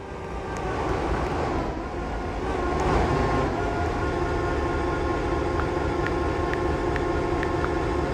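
Freight train running by, a steady low rumble with a constant hum of diesel locomotive engines, building over the first few seconds.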